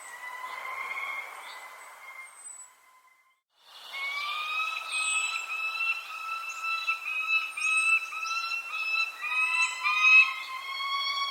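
Birdsong: a bird singing a run of short repeated whistled notes, about two a second, with thin high chirps from other birds above it. The sound drops out briefly about three seconds in.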